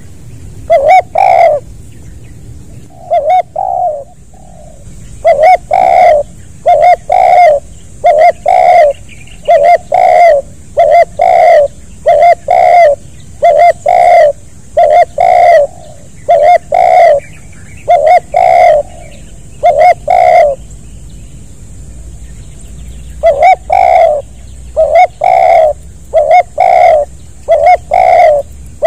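Spotted dove cooing loudly and repeatedly close by: short coo notes in quick pairs, about one pair a second, breaking off for a couple of seconds about three quarters of the way through and then resuming.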